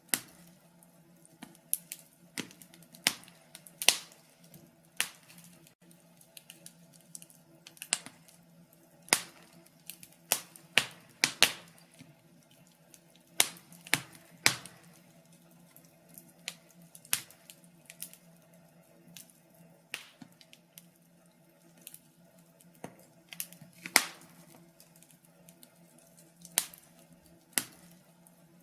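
Wood fire crackling in a fireplace: irregular sharp snaps and pops, several a second, with a few louder pops, over a faint steady low hum.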